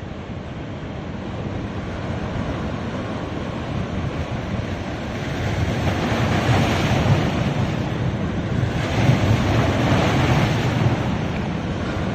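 Ocean waves breaking and washing up a beach, swelling twice as two waves come in, with wind buffeting the microphone.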